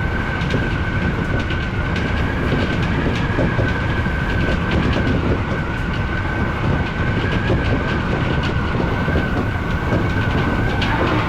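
Odakyu electric commuter train running at speed, heard from inside the front car: a steady rumble of wheels on rail with a constant high whine and irregular clicks over rail joints.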